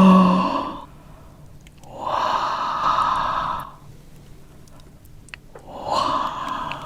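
A person blowing out three long, heavy breaths through the mouth. The first starts with a short voiced 'hah'. It is the huffing of someone whose mouth is burning from very spicy fried chicken.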